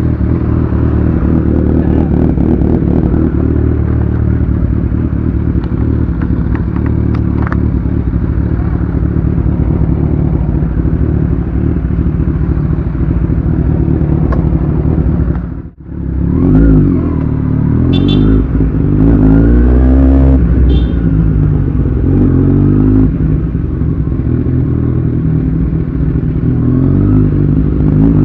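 Kawasaki Z1000's inline-four engine with an Austin Racing aftermarket exhaust running loudly. The note is steady for about the first half, dips suddenly for a moment near the middle, then rises and falls again and again as the revs go up and down.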